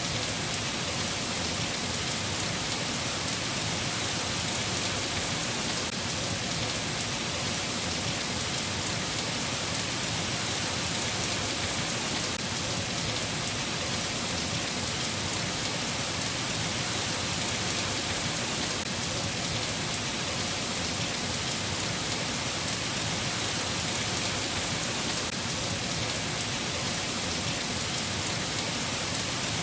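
Steady rainfall, an even hiss of rain falling on a surface without letup.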